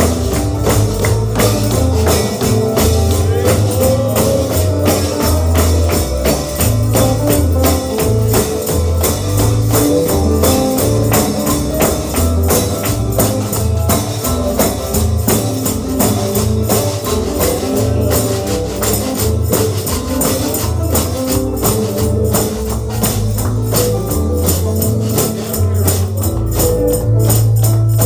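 Instrumental holiness gospel music: a tambourine beats a quick, steady rhythm over a bass line.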